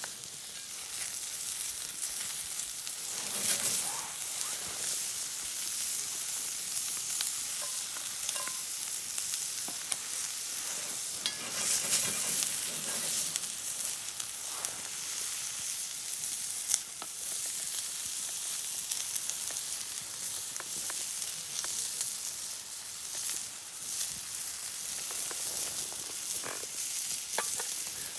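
Food frying in a pan: a steady sizzling hiss with scattered crackles and pops, swelling louder a couple of times.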